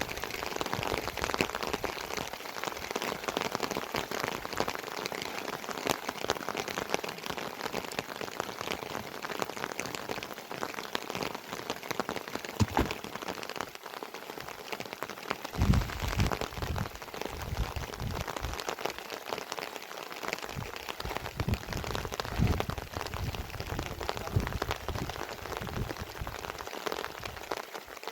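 Rain falling steadily, a dense patter of drops, with low thumps now and then in the second half.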